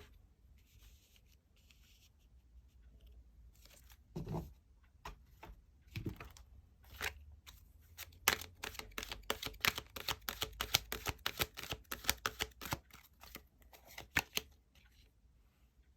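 Tarot cards being handled and shuffled: soft rustling, two low knocks, then a long run of quick crisp card clicks that stops shortly before the end.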